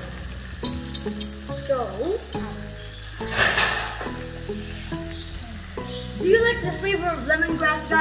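Salmon fillets and vegetables frying in a pan: a steady sizzle, louder for a moment about halfway through. Background music plays over it.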